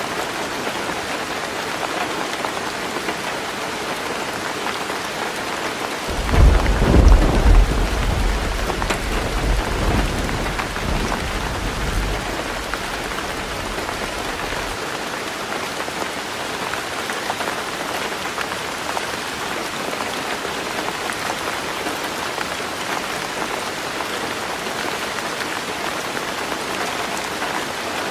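Heavy rain falling steadily on a roof. About six seconds in, a low rumble of thunder rolls in, loudest over the next two seconds, then dies away over several seconds.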